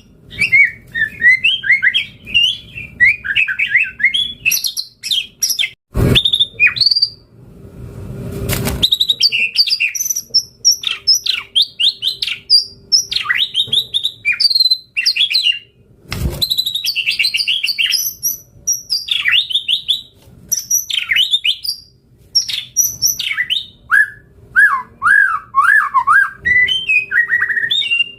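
White-rumped shama singing a long, rapidly varied song of whistles, trills and chirps, phrase after phrase with hardly a pause. Three sharp loud cracks cut through it, about six, eight and a half, and sixteen seconds in.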